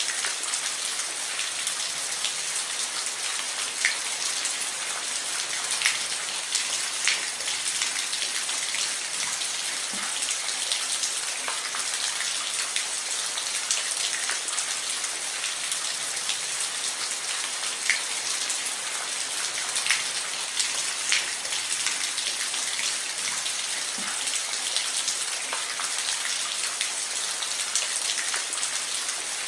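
Steady rain falling on a roof: a continuous hiss with many individual drops ticking through it.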